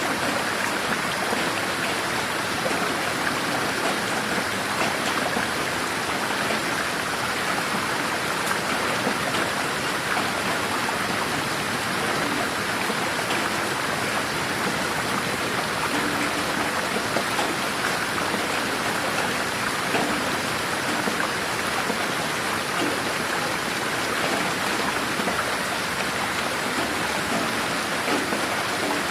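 Steady rain falling on a garden, a dense even hiss of drops with faint scattered patter.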